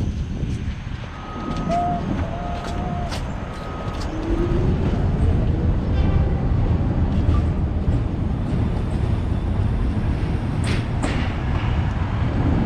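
Vintage New York City subway car running on the track: a heavy low rumble with scattered clicks. Brief high squealing tones come between about one and three seconds in, then a short rising whine, and the rumble grows louder after about four seconds.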